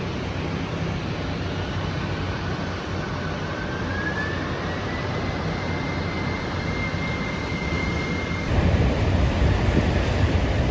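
Jet airliner engines running, with a whine that rises in pitch over a couple of seconds and then holds steady. About eight and a half seconds in, the sound changes abruptly to a louder, deeper rumble.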